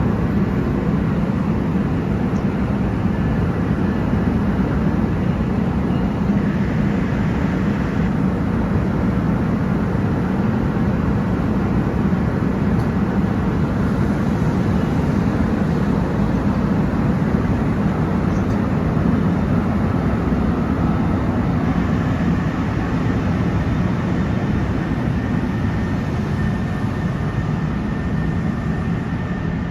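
Train on the Northeast Corridor running through the station: a loud, steady low noise with faint whining tones above it, easing slightly near the end.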